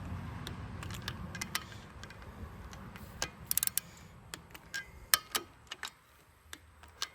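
Scattered sharp metallic clicks, with a quick run of ratchet clicks about three and a half seconds in, from a Snap-on 3/8-inch torque wrench and socket being worked around the injector retaining stud nuts. A low hum sits underneath and fades out about halfway.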